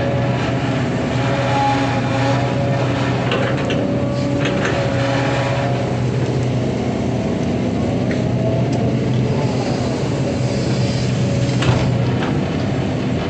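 Excavator's diesel engine running steadily at working revs, with short knocks and clanks scattered through, several of them a few seconds in and one near the end.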